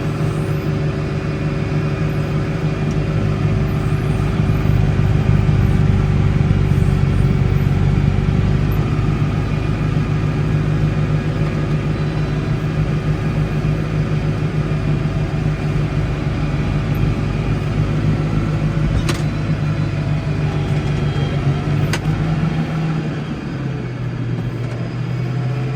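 Case 115U garden tractor engine running steadily under load while clearing snow. Its note changes about three-quarters of the way through, and two short clicks come near the end.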